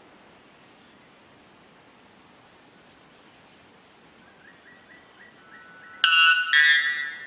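White bellbird giving its very loud two-note call about six seconds in, each note lasting about half a second and full of overtones, after a few faint short notes. A steady high insect drone runs underneath.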